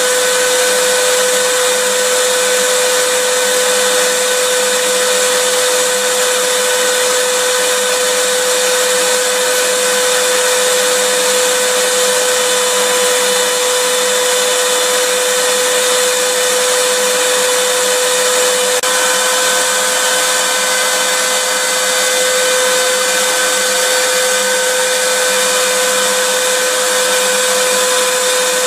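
Vacuum cleaner motor running steadily: an even rushing hiss with a constant high whine through it.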